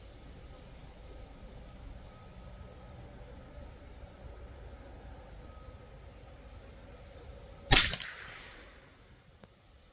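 A single sharp .22 LR rifle shot about three-quarters of the way in, from the Rock Island M14Y, with a brief echo. A steady high insect drone runs underneath.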